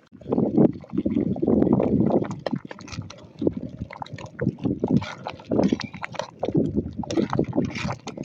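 Liquid splashing and sloshing in irregular bursts, loudest in the first two seconds or so.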